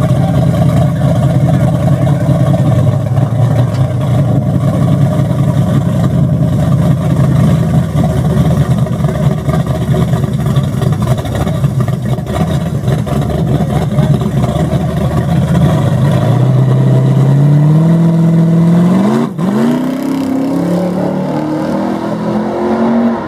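Drag car engine running loud and steady, then accelerating hard: its pitch climbs in steps, breaks off sharply once at a gear change, and climbs again.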